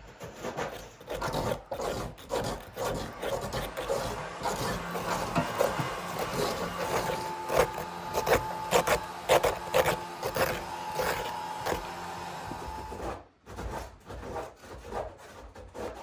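Irregular scraping and rubbing with many small clicks and knocks, like something hard being worked or scraped by hand. A steady hum joins in about halfway through and stops a few seconds before the end.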